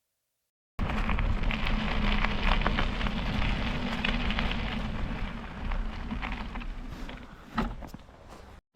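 Bicycle rolling on a wet, gritty road: tyre crackle and a low rumble, starting abruptly about a second in and easing off toward the end, with one sharper click near the end.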